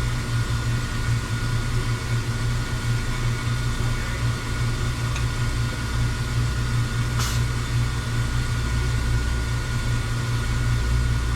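Steady low machine hum with a faint, steady high tone above it, and a brief hiss about seven seconds in.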